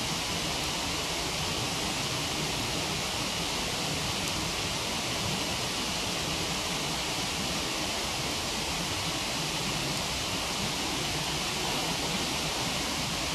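Steady rushing of a waterfall, even and unbroken, with a single faint crackle from the wood fire about four seconds in.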